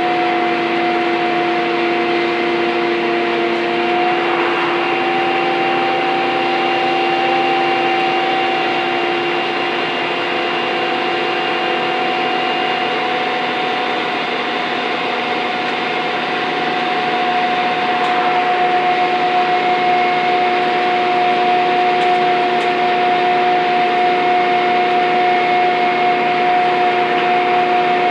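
Scania N230UD double-decker bus engine working hard under load, heard on board, with a steady high vacuum-cleaner-like whine ('hoover thrash') over the engine note. The whine edges up in pitch about four seconds in, and the sound grows a little louder after about seventeen seconds.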